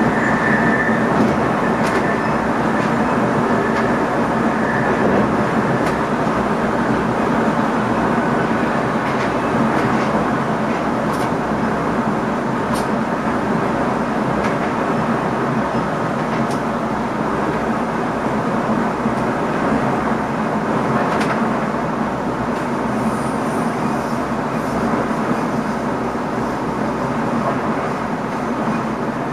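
Steady running noise inside the driver's cab of an NS ICM electric multiple unit moving along the line: wheels on rail and running gear making a constant rumble and hum, with a few sharp clicks now and then.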